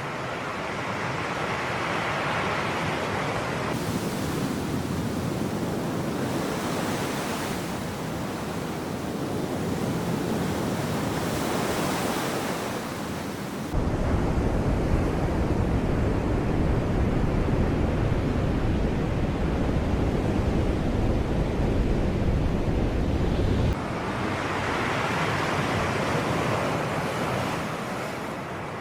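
Sea waves washing in, the surf swelling and ebbing every several seconds. About halfway through, a heavy low rumble cuts in suddenly and stops just as suddenly about ten seconds later.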